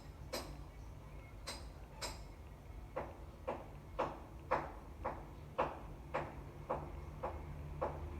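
A series of knocks: a few sharp clicks at first, then from about three seconds in regular strikes about two a second, over a steady low hum.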